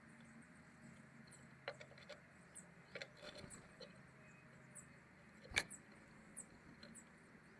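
Small birds giving faint, thin, high chirps over and over at a feeder, with a few sharp taps and knocks, the loudest about five and a half seconds in.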